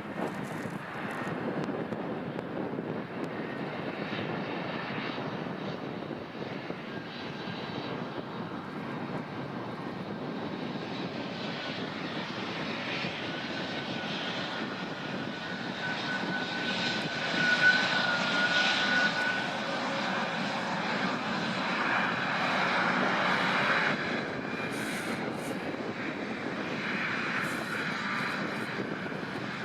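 Airliner engines running: a steady rushing noise with a thin whine that swells to its loudest a little past the middle, then drops back near the end.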